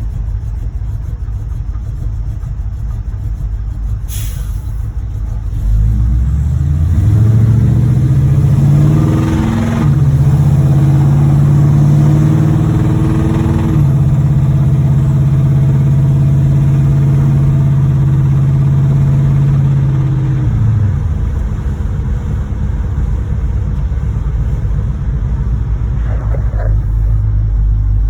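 V8 engine of a 1986 Chevrolet Monte Carlo SS driving; its engine has a knocking connecting rod. The engine note climbs under acceleration from about six seconds in, steps through gear changes, holds steady at speed, then drops back to a low rumble about two-thirds of the way through. There is a sharp click about four seconds in.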